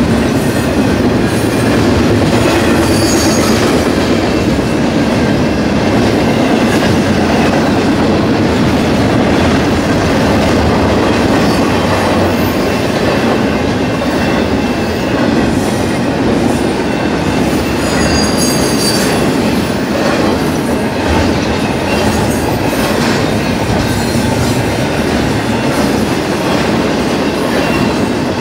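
Double-stack intermodal freight cars rolling past, a loud steady rumble of steel wheels on rail with clacking over the joints. Short high wheel squeals come about three seconds in and again around eighteen seconds in.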